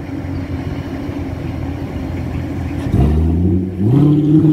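Chevrolet C7 Corvette V8 engines passing at parade speed with a low rumble. About three seconds in, a louder engine note cuts in and rises in pitch as one car revs and accelerates past close by.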